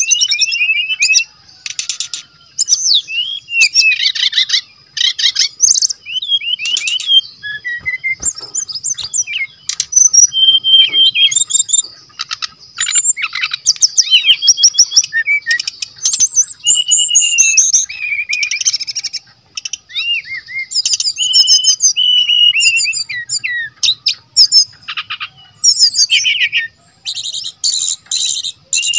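Brown-chested jungle flycatcher singing a fast, varied song of whistled glides and chattering notes, in runs broken by short pauses.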